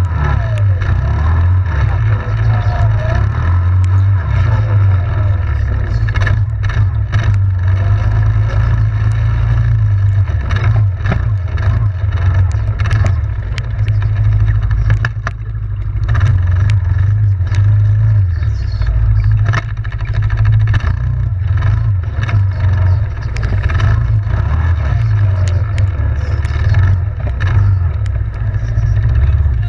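Yamaha Grizzly 700 ATV engine running steadily under way, a deep continuous drone, with scattered knocks and clatter from the ride and a brief drop in engine note about halfway through.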